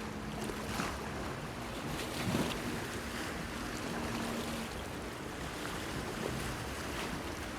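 Sea waves washing and slapping against a stone pier, with wind on the microphone, a louder splash about two seconds in, and a faint steady low hum underneath.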